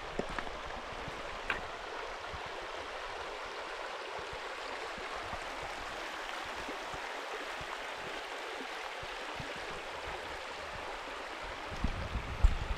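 Small river or stream running with a steady rushing sound. A few low bumps come near the end.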